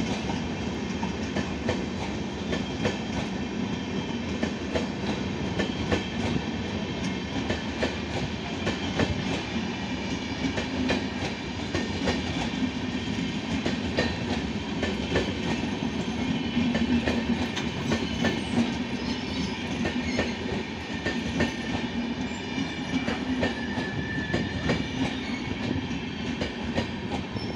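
Indian Railways passenger coaches rolling slowly into a station platform, their wheels clicking and clattering over the rail joints in a steady rumble.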